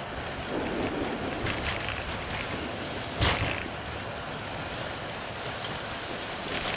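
Steady rush and rumble in a Boeing 747-8 cockpit during the landing rollout, with the thrust reversers deployed and the aircraft decelerating on the runway. There is a single sharp thump about three seconds in.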